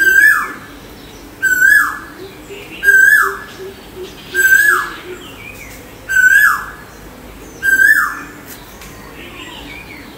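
A bird call repeated at an even pace, about once every second and a half: each call is a short whistled note that drops sharply in pitch at its end, with faint higher chirping alongside.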